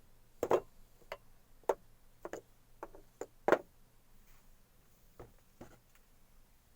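A series of irregular sharp knocks and clicks of hard objects, about nine in all, with the loudest about three and a half seconds in and a few fainter ones near the end.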